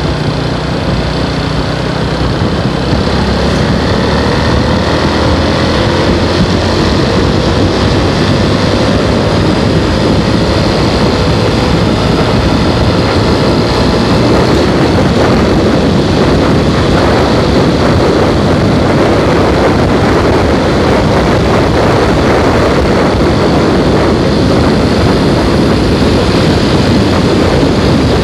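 Motorcycle running at road speed with heavy wind rush over the microphone, a steady dense noise; a faint engine note climbs slowly in pitch during the first half.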